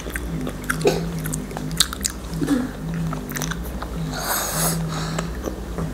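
Close-up chewing and biting of soft sausages coated in nacho cheese, with many small wet mouth clicks. About four seconds in, a short noisy sip from a cup.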